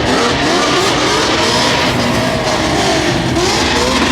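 Car engines revving hard, their pitch rising and falling over a steady loud rumble of exhaust.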